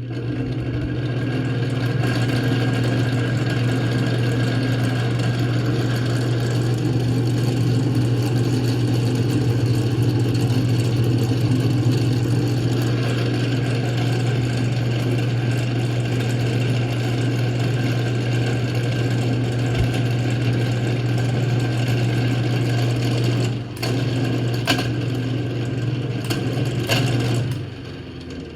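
Antique Manning Bowman table fan's electric motor running with a loud, steady hum and resonance, which the owner puts down to the dry front bearing of the motor. It dips briefly, gives a few sharp clicks, then stops shortly before the end.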